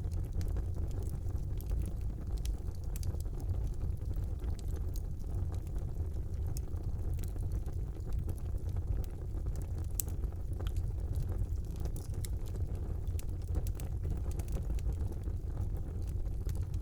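Fire burning in a fireplace: a steady low rumble with irregular sharp crackles and pops scattered throughout, one louder pop about ten seconds in.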